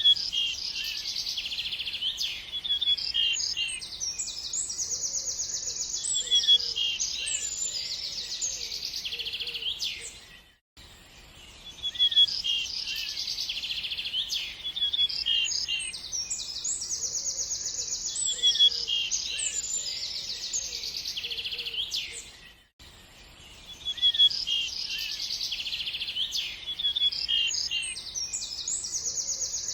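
Songbirds chirping and trilling, a dense run of rapid, high calls. A stretch about twelve seconds long repeats as a loop, broken by a brief silent gap about ten and a half seconds in and again at about twenty-three seconds.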